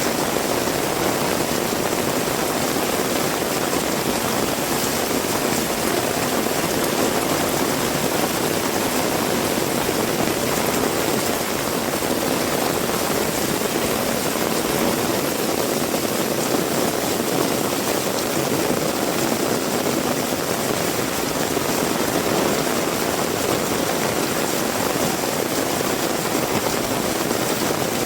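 Heavy rain falling steadily, an even hiss with no breaks or sudden sounds.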